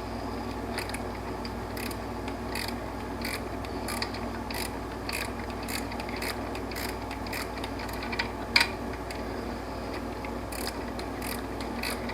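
Socket ratchet clicking through short back-and-forth strokes, about two to three clicks a second, as it turns a bolt on the alternator bracket.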